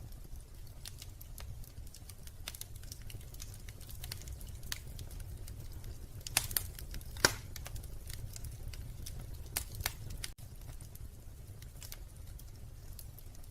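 Wood fire crackling in a fireplace: scattered small pops and snaps over a steady low rumble, with a few sharper, louder pops a little past halfway.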